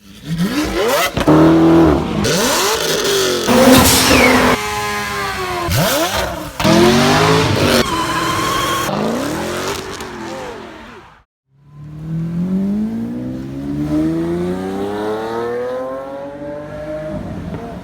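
A quick succession of performance car engines revving and accelerating, cut abruptly from one car to the next. Near the end one engine pulls in a single long acceleration, its pitch climbing steadily.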